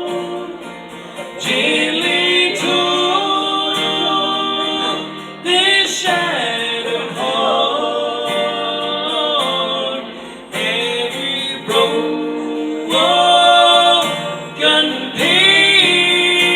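Live gospel music: voices singing with acoustic guitar accompaniment.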